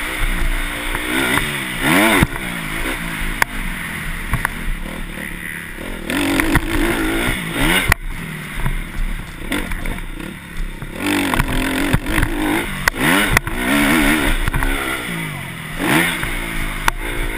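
Motocross dirt bike engines revving hard and easing off again and again, the pitch sweeping up and falling back every few seconds, with scattered clattering knocks.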